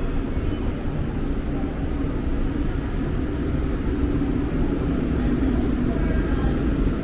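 Montreal metro train running through the station: a steady low rumble that swells from about three seconds in and eases near the end.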